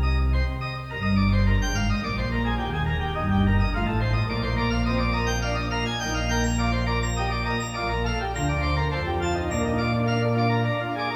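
Organ music: sustained chords over a held bass line, changing every second or so.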